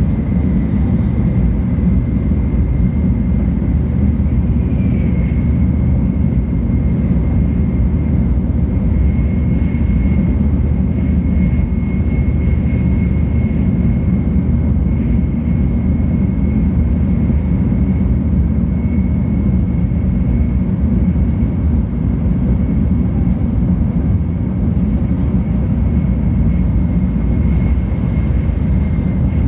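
Cabin noise inside a 700 Series Tokaido Shinkansen running at speed: a steady low rumble of running gear and air, with a faint high whine over it.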